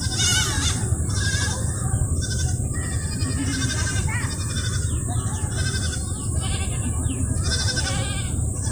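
Diesel engine of a water pump running steadily, with several higher animal calls over it.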